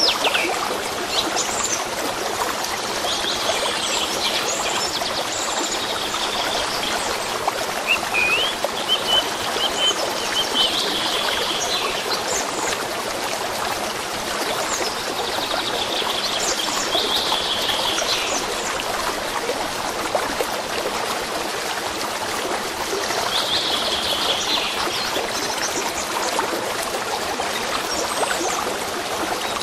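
A stream trickling steadily, with songbirds singing in short phrases every few seconds.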